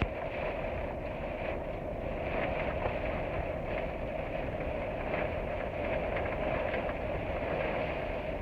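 Steady rain, with a constant low rumble underneath and faint scattered ticks of drops.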